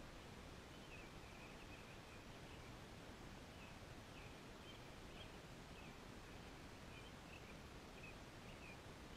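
Near silence: a faint steady outdoor hiss, with a bird chirping faintly in short high notes repeated every second or so.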